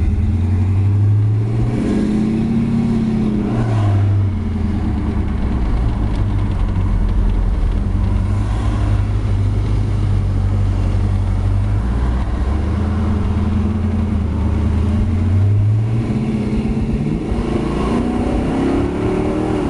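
1969 Pontiac GTO's V8 engine pulling the car along: the engine note climbs in pitch about two seconds in and drops back, holds steady for a long stretch, then climbs again near the end as the car accelerates.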